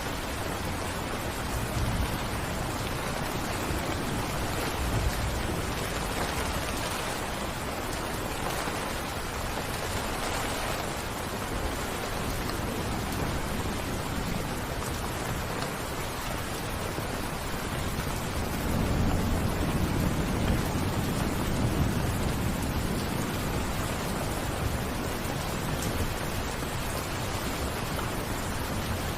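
Steady rainfall, an even hiss of falling rain. A low rumble swells up for a few seconds about two-thirds of the way through.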